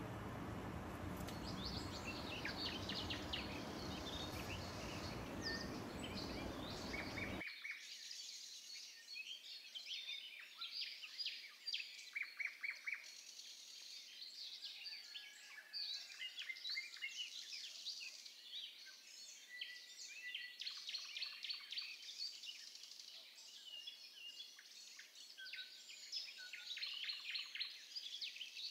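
Several small birds chirping, with many short calls and quick trills overlapping. A steady rushing noise runs underneath for the first several seconds and stops abruptly about a quarter of the way in.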